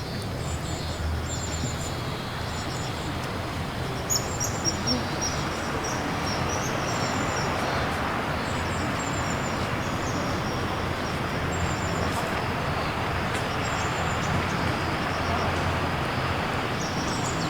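Outdoor pond ambience: a steady hiss over a low rumble, with short high chirping calls repeating through it in runs, loudest about four seconds in.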